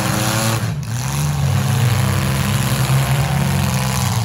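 Engines of compact demolition derby cars running and revving, their pitch rising and falling, with a brief drop a little under a second in.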